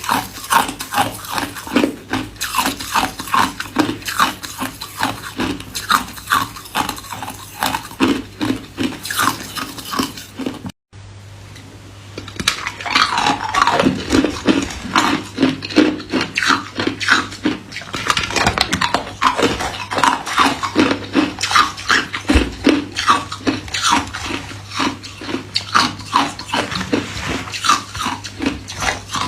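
Hard white ice being chewed close to the microphone: a rapid, uneven stream of sharp crunches. They stop abruptly a little over a third of the way through, and the chewing picks up again a second or two later.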